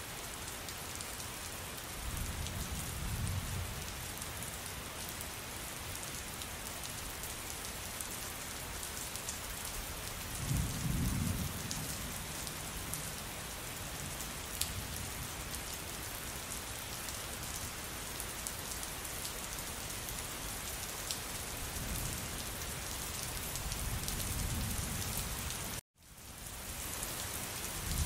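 Steady rain pattering on a surface, with low rolls of thunder rumbling in three times: a few seconds in, about a third of the way through, and a longer one late on. Near the end the sound cuts out abruptly for an instant and fades back in.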